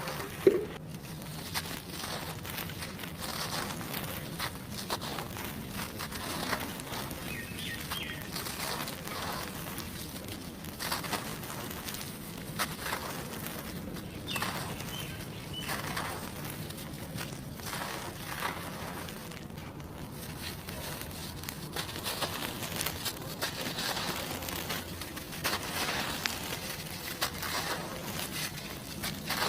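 Dry cement chunks being crumbled, with a continuous run of fine crunching and crackling.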